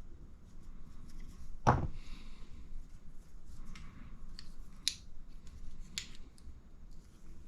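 RC car shock absorber parts and small hand tools being handled on a workbench: a dull knock about two seconds in, then several sharp clicks.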